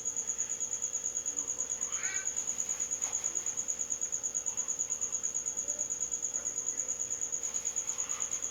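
A cricket chirping steadily, one high, thin note pulsing about ten times a second without a break.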